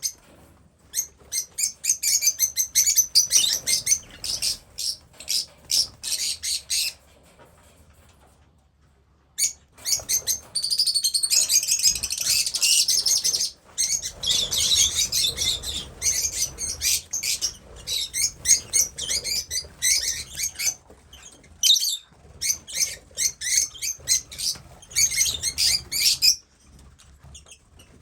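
Lovebirds (rosy-faced and Fischer's) chirping and squawking, a flock giving rapid, shrill calls in quick runs. There is a short lull about a quarter of the way in, and then the calling picks up again, busiest a little after that.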